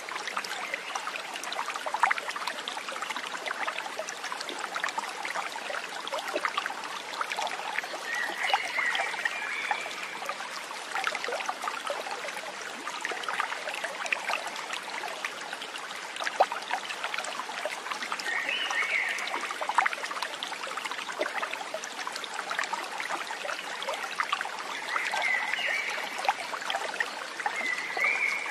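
A stream trickling and splashing steadily over stones, with many small drips and plops. A few short, high calls sound over it, four times.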